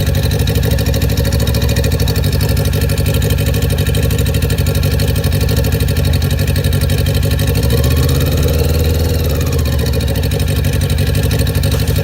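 An engine, the one the title calls damaged, running steadily, with a brief rise and fall in pitch about eight seconds in as the revs are blipped. It stops abruptly at the end.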